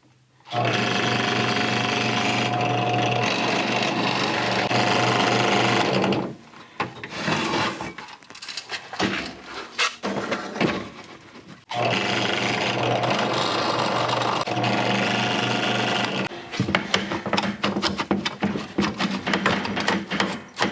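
Power drill drilling out the rivets on a pop-up camper lift arm: one steady run of about five and a half seconds, then, after irregular knocks and rattles, a second run of about four and a half seconds, followed by more knocking and rattling.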